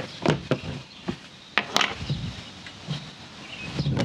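Scattered sharp clicks and taps of small parts and tools being handled, the loudest about two seconds in.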